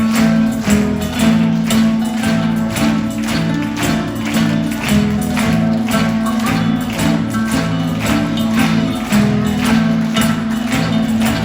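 A tarantella played on guitars with a fast, even beat of struck or strummed strokes.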